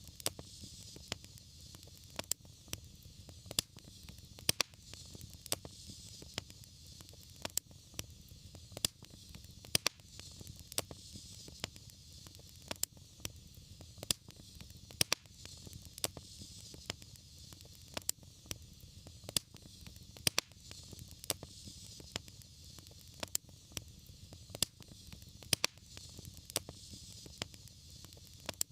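Wood fire crackling: irregular sharp pops and snaps a few times a second over a soft steady hiss and low rumble of the flames.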